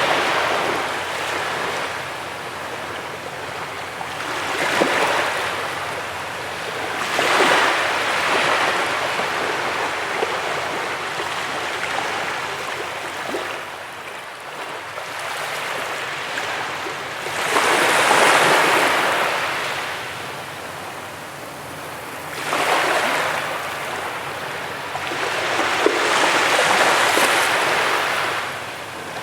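Ocean waves breaking and washing up a beach, a hissing rush that swells and fades in irregular surges every few seconds.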